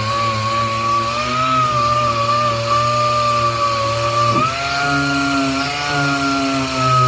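Dual-action (DA) sander running steadily, sanding the paint off a car's steel quarter panel. Its whine steps up in pitch about four and a half seconds in.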